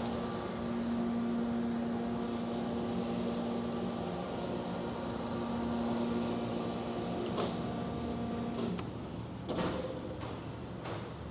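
Cincinnati universal cylindrical grinder's electric motors running with a steady hum, which cuts out about nine seconds in. A few sharp knocks follow.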